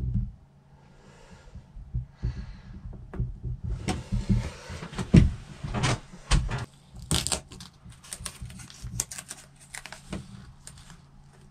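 Resin-soaked masking tape being handled and pressed down by fingers onto the floor of a bathtub: rustling, then a run of small clicks and taps close to the microphone.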